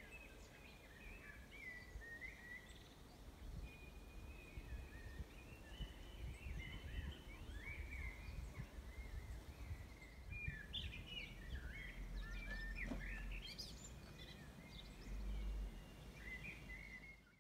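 Wild birds singing, a run of short chirps and warbling phrases, over a low fluctuating rumble.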